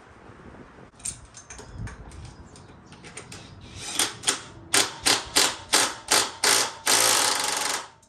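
Ratchet wrench clicking in a run of strokes about three a second, then a second of fast continuous ratcheting near the end, typical of tightening a motorcycle wheel's axle nut.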